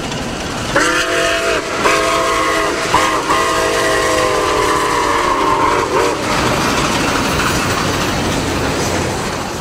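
Train whistle sounding a grade-crossing pattern, two long blasts, a short one and a long one, its several tones sagging in pitch as each blast ends, over the steady rumble and clatter of a moving train.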